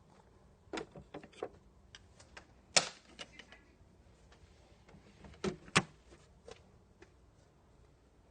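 Plastic clicks and knocks from a pink Just Like Home toy microwave being handled, such as its door and buttons, in irregular bunches with two sharper knocks about a third of the way in and about two-thirds in.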